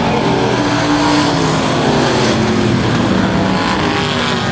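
A field of Thunder Truck race trucks running at racing speed on the track, a steady din of several overlapping engine notes.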